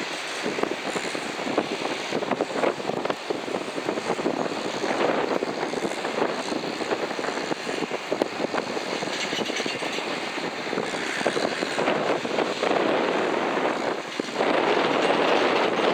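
Rushing engine noise from a McDonnell Douglas MD-87 jet airliner's pair of rear-mounted turbofans, fluctuating, then stepping up louder near the end.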